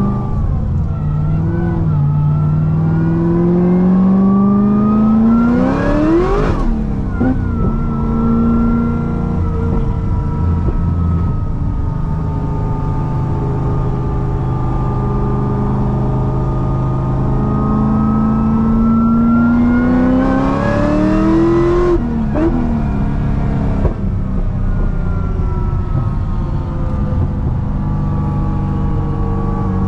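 Supercharged V8 of a 1000 hp C6 Corvette ZR1 pulling hard, with a Kong 2650 supercharger. The pitch climbs steeply for about six seconds, then drops sharply at an upshift and holds steady at cruise. From about eighteen seconds it climbs again to a second upshift a little after twenty seconds, then holds steady.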